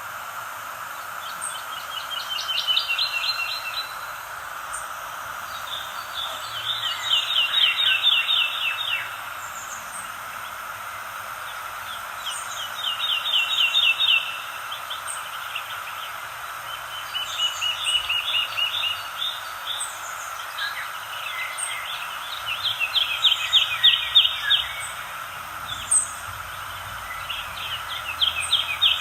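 A songbird singing a short, rapid trill phrase over and over, about once every five seconds, with fainter high chirps between phrases over a steady background hiss of outdoor ambience.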